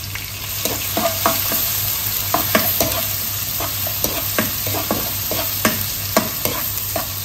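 Chopped ginger, garlic, green chillies and small onions sizzling in hot coconut oil in a nonstick wok. From about a second in, a wooden spatula stirs them, knocking and scraping against the pan many times.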